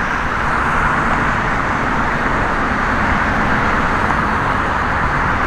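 Steady road traffic noise from a busy highway: a continuous hiss of tyres and engines, with a low rumble underneath.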